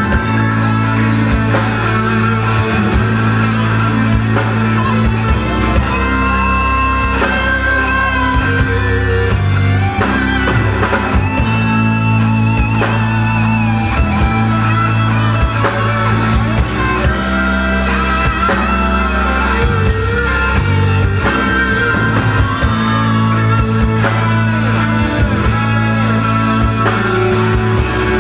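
A rock band playing live, an instrumental passage: electric guitar leads over steady drums and bass, with no singing.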